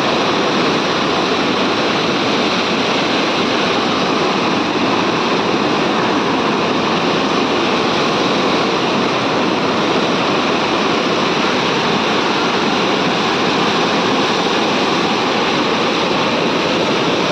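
Floodwater rushing past in a loud, steady, unbroken rush.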